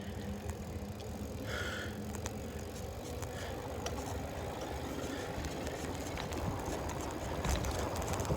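Steady low rumble of a bicycle being ridden, with a few faint clicks.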